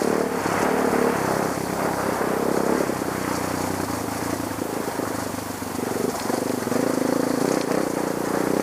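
Trail dirt bike engine running under changing throttle: revved high for the first few seconds, eased off in the middle, then opened up again near the end.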